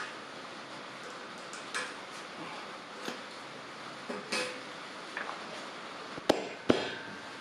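Metal parts being handled in a workshop: scattered clinks and light knocks, then two sharp, ringing metallic knocks less than half a second apart near the end.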